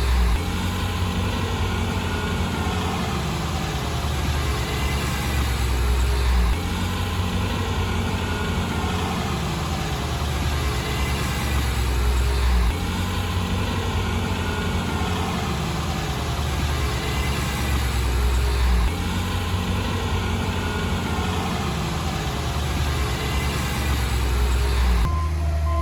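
Heavy diesel earthmoving machine engine running steadily, its low rumble shifting up and down in a cycle that repeats about every six seconds.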